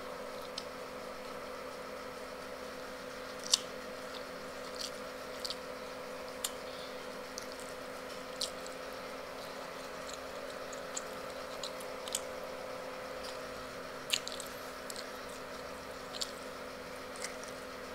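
Mouth chewing chicken with scattered short wet smacks and clicks, roughly one every second or two, over a steady faint background hum.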